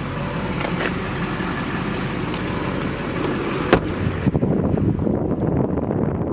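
A 6.6L Duramax turbo diesel idling steadily, with one sharp knock about four seconds in, after which wind rumbles on the microphone.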